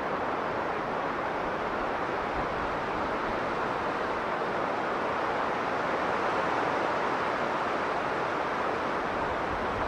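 Strong blizzard wind blowing steadily as a rushing noise, swelling a little about six seconds in.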